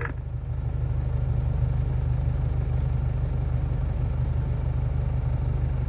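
Semi-truck's diesel engine idling, heard from inside the cab as a steady low hum.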